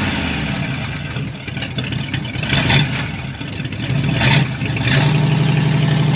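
1950 Ford Shoebox's flathead V8 running at idle, a steady purr. The engine has just been brought back from six dead cylinders by tapping the stuck valves back down.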